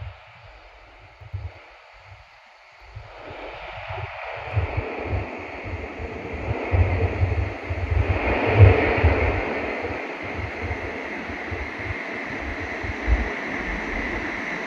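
Inside a Shinkansen car at speed: a low rumble, then from about three seconds in a rushing running noise swells up, is loudest around eight to nine seconds and holds steady.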